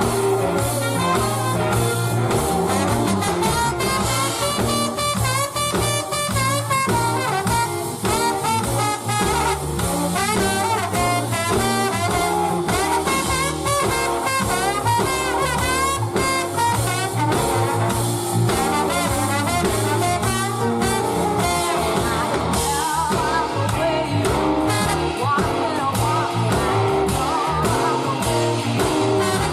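Live band music with brass instruments and singing, in a jazzy, funky arrangement.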